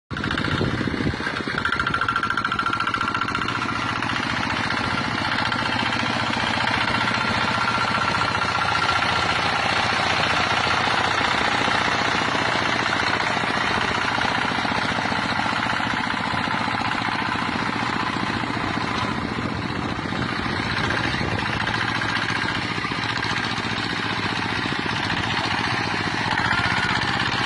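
Kubota hand tractor's engine running steadily, with a fast, even knocking beat.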